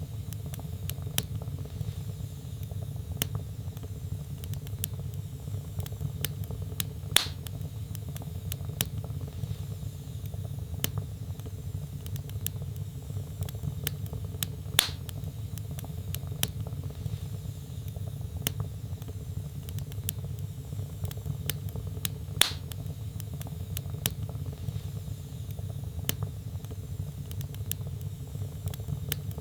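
Log fire crackling in a fireplace: many small clicks and snaps over a steady low rumble, with a louder pop about every seven and a half seconds.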